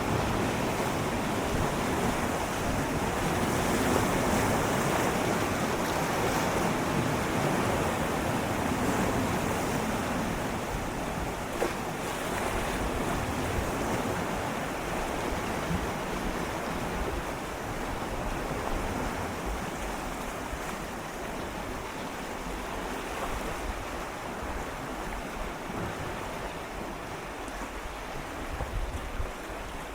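Gentle sea waves swirling and lapping against shoreline rocks, a steady wash of water that swells in the first half and eases off after about fourteen seconds, with a light rumble of wind on the microphone.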